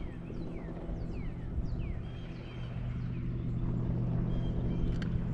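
Boat motor running with a steady low hum, while birds call with a quick series of short downward-sliding chirps, mostly in the first couple of seconds.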